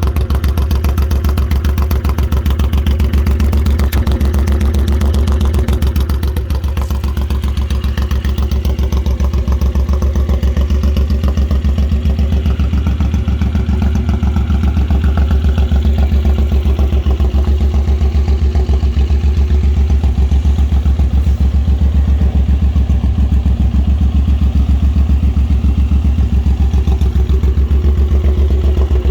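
Suzuki Intruder M1800's V-twin engine idling steadily through a chromed 2-into-1 exhaust, a deep even pulse with only a slight dip in level a few seconds in.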